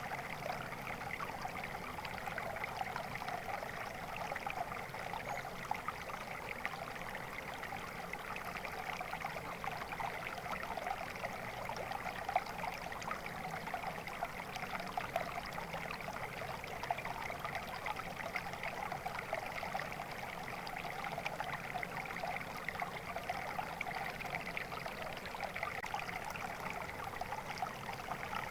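Flowing water, a stream running and trickling steadily.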